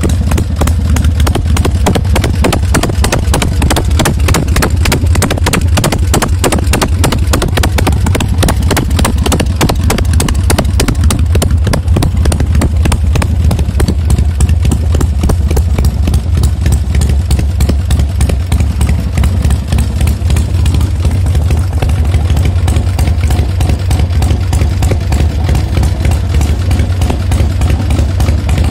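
Harley-Davidson Panhead air-cooled V-twin engine of a bobber motorcycle idling steadily, its exhaust pulses making a quick rhythmic beat.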